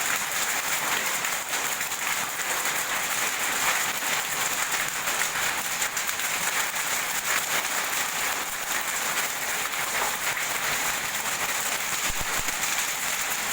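Hailstones and rain falling, a dense, steady clatter of countless small impacts.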